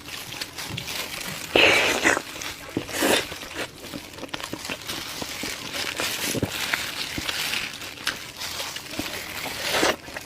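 Close-miked eating: wet chewing and smacking of braised meat, with irregular small clicks and a louder, noisier burst about a second and a half in.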